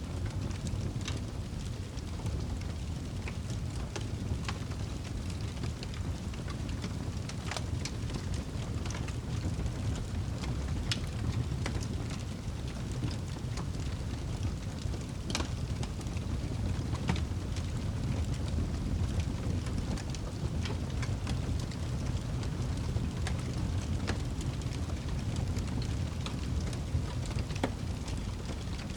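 Campfire burning, the wood crackling and popping at irregular intervals over a steady low rumble.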